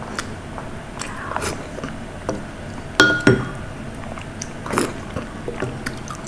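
Close-miked eating sounds: biting and chewing with scattered small clicks, and a sharp clink with a brief ring about three seconds in.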